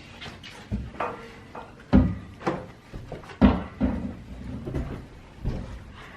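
A series of knocks and bangs, the loudest about two and three and a half seconds in, as a heavy item is lifted, turned sideways and bumped through a doorway.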